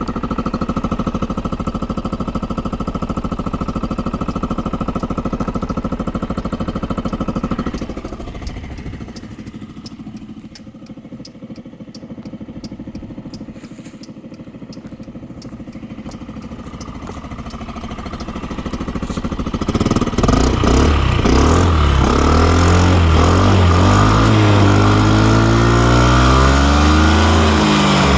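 Yamaha Majesty 125 FI scooter's single-cylinder four-stroke engine running: it idles steadily, goes quieter with an even ticking for about ten seconds, then is revved up and down repeatedly for the last third.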